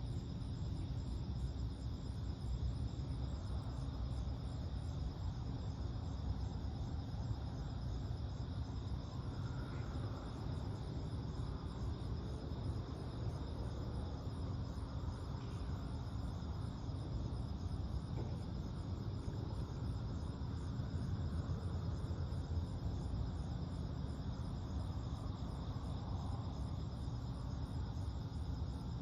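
A steady chorus of night insects trilling continuously at a high pitch, over a steady low rumble.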